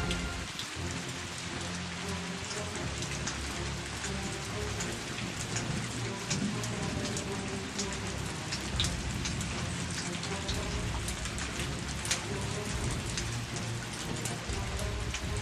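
Heavy rain pouring down steadily in a downpour, with scattered sharper drop hits close by.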